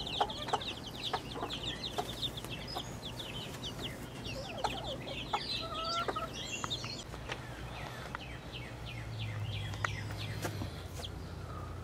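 Chickens clucking, with a quick run of high chick peeps in the first few seconds and scattered clicks.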